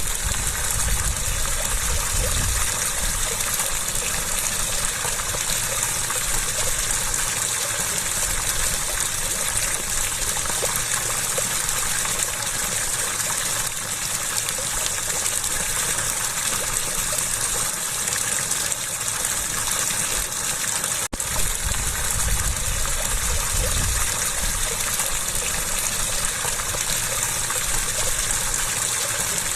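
Steady rush of flowing water, with a momentary break about two-thirds of the way through.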